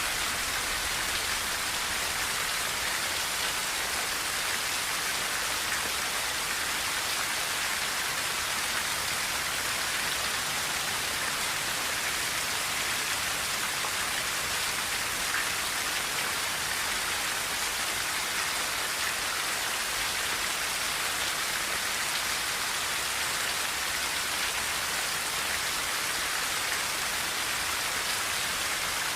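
Rain falling steadily on a tin roof: a dense, even patter, brighter than it is deep, with no thunder.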